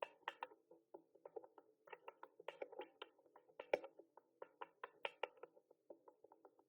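Typing on a mechanical keyboard: quick, uneven runs of sharp key clicks, several a second, with brief gaps between bursts.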